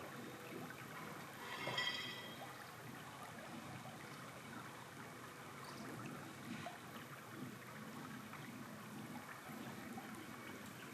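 River water running steadily. A brief pitched sound cuts in about two seconds in.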